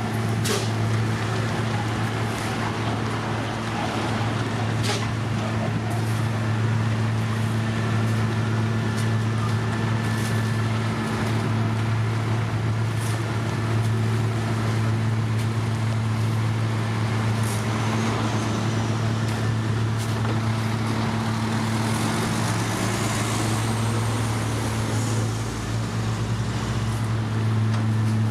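Heavy construction machine's diesel engine running steadily at a constant speed, with scattered clicks and knocks over it.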